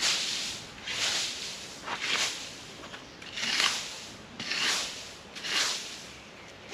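A broom sweeping debris across the ground in steady strokes, a noisy swish about once a second.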